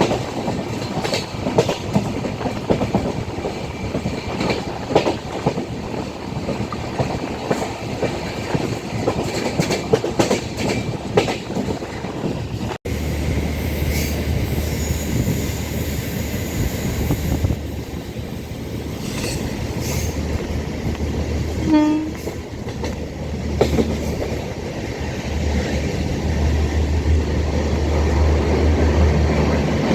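Passenger train running, heard from inside a coach: wheels clattering rapidly over the rails over a steady rumble. About a third of the way in the sound cuts off abruptly and changes to a deeper, smoother rumble with fewer clicks, and a brief horn-like toot sounds about two-thirds through.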